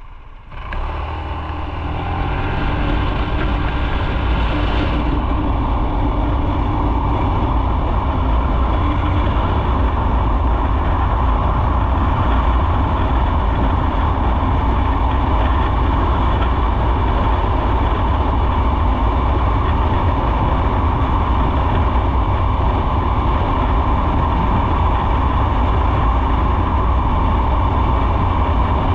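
Motorcycle riding: about half a second in, the sound jumps up and rises over the next two seconds as it pulls away. It then settles into a steady, loud rush of engine and riding noise.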